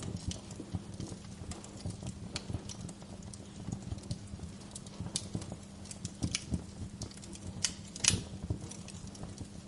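Wood fire in a fireplace crackling, with irregular sharp pops and snaps over a steady low crackle; one loud pop about eight seconds in.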